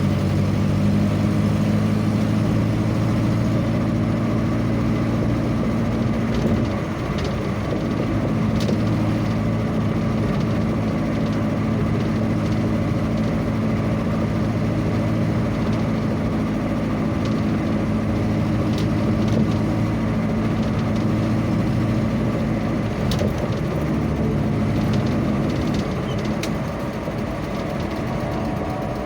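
A vehicle engine running steadily on the road, with a steady noise of travel over it; the engine note dips and changes briefly about six or seven seconds in.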